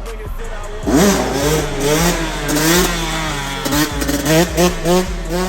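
Gas Gas MC125 single-cylinder two-stroke dirt bike engine revving. It sweeps up sharply about a second in, then rises and falls over and over, with quick short throttle blips near the end.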